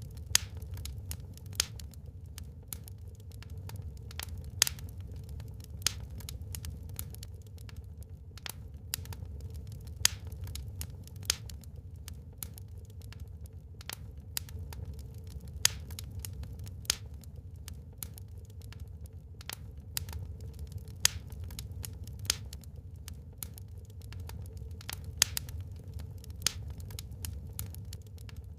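Wood fire burning in a fireplace: irregular sharp crackles and pops, some louder snaps every few seconds, over a steady low rumble of the flames.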